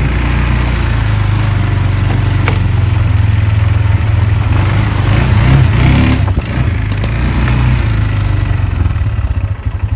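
Four-wheeler (ATV) engine running steadily while riding, with a short rise and fall in engine speed about halfway through.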